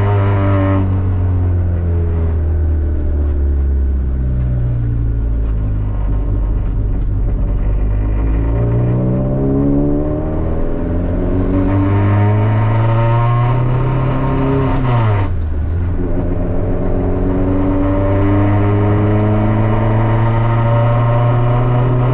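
Turbocharged Honda Civic engine under way. Engine speed falls over the first few seconds, then climbs under acceleration, drops sharply with a gear change about fifteen seconds in, and climbs again.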